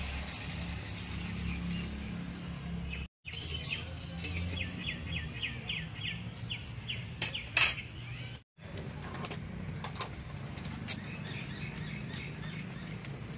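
Birds chirping, with a quick run of repeated chirps, a few a second, in the middle and scattered calls around it, over a low steady rumble.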